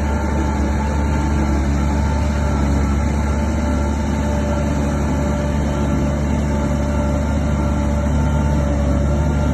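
Bulldozer's diesel engine running steadily, a low heavy drone with a few steady higher tones over it.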